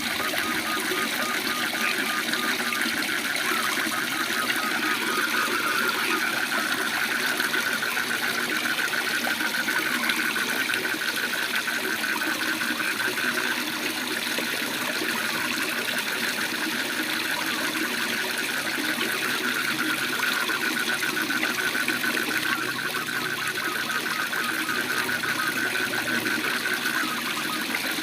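Steady rush of a waterfall, with frogs calling in fast pulsed trills at one pitch over it. The trills let up for a few seconds in the middle, then carry on.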